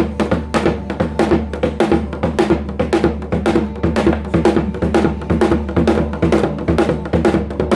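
Janggu (Korean hourglass drum) played in a fast, driving rhythm: a dense, even run of sharp stick strikes, several a second, over deeper drumhead beats.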